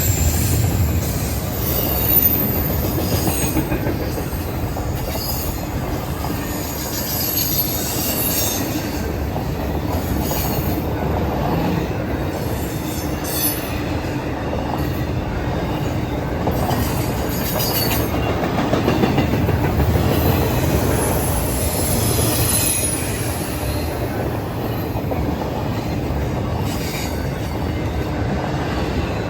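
Norfolk Southern freight train cars rolling past on steel rails in a steady rumble, with intermittent high-pitched wheel squeal.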